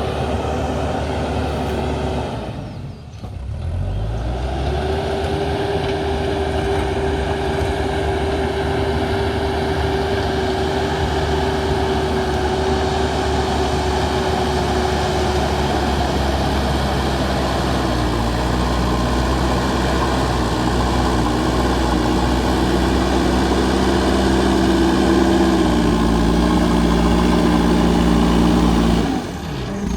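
JCB backhoe loader's diesel engine running hard while it works. It drops away briefly about three seconds in and revs back up, holds steady, shifts pitch a couple of times, and dips and revs up again near the end.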